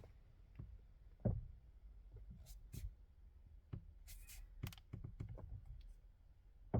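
Faint scattered clicks and knocks from a 2018 Hyundai Creta's steering column as the wheel is turned, about eight separate taps, the loudest about a second in and another near the end. The owner takes the knock to come from the area of the electric power steering unit, perhaps a piece of plastic or rubber catching.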